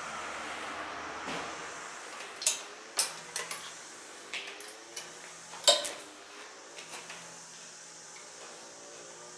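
Irregular sharp metallic clinks and knocks of tools or small metal parts being handled, about a dozen strikes with the loudest a little past the middle. A steady hiss underlies the first couple of seconds.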